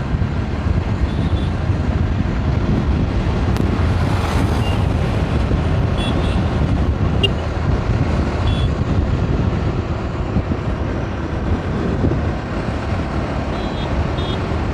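Steady wind and road noise from a motorcycle being ridden at speed: a Pulsar 200 NS, with wind buffeting the camera microphone.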